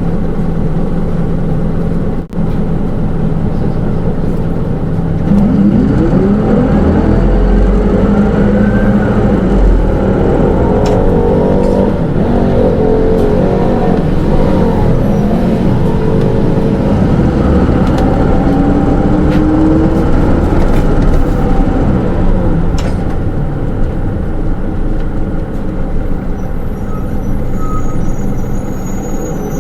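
Hino Rainbow II (SDG-KR290J1) city bus with automatic transmission, heard from inside the cabin. The diesel engine holds a steady note for about five seconds, then the bus pulls away with rising engine and drivetrain whines through the gear changes, runs on under way, and the pitch falls near the end as it slows.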